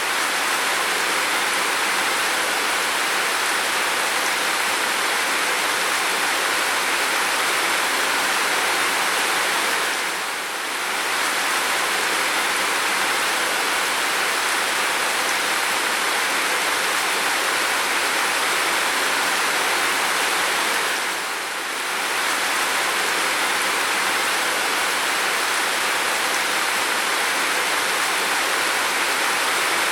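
Steady heavy rain, a continuous even hiss with no separate drops or thunder standing out. It dips briefly in level twice, about ten and twenty-one seconds in.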